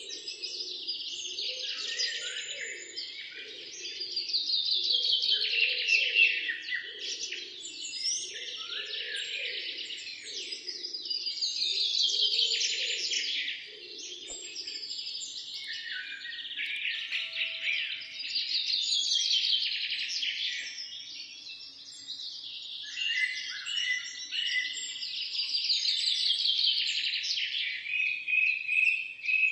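Songbirds chirping and singing, one of them repeating a fast trill that falls in pitch every three to four seconds. A fainter low pulsing sound runs under the first half.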